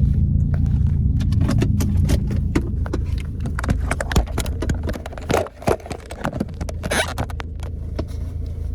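Straight-piped Ford Focus exhaust idling with a low drone. From about a second and a half in, a run of clicks, knocks and rattles from the phone being handled and set down.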